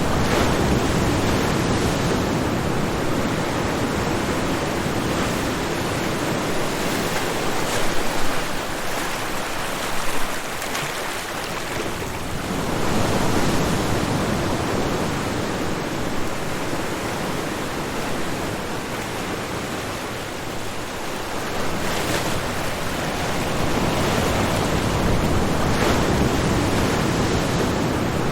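Ocean waves breaking and washing on the shore, a continuous roar of surf that swells and eases every several seconds.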